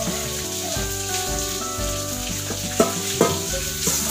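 Steady sizzle of food frying in a pan, with a couple of sharp metal knocks about three seconds in as a pot is set into a stainless-steel sink. Tap water starts running into the pot near the end.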